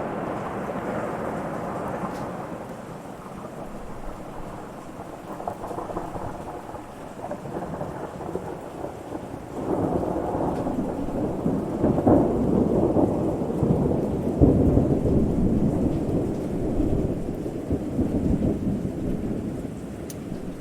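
Thunderstorm: rolling thunder over steady rain. A rumble dies away over the first few seconds, then a second, louder rumble breaks in about halfway through and slowly fades.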